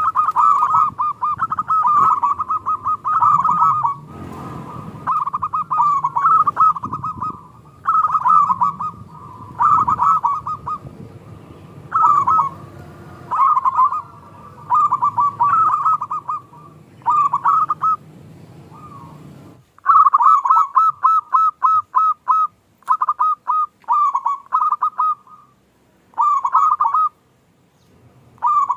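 Zebra dove (perkutut) song: repeated phrases of quick, closely spaced coos at a steady pitch, each phrase a second or so long with short gaps between. A low background rumble under the first two-thirds cuts off suddenly about twenty seconds in.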